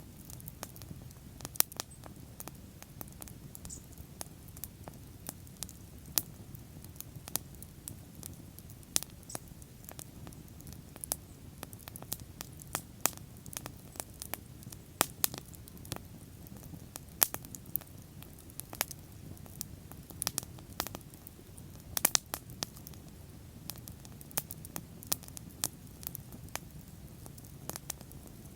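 Wood bonfire burning, crackling and popping in sharp, irregular snaps over a steady low rumble of the flames.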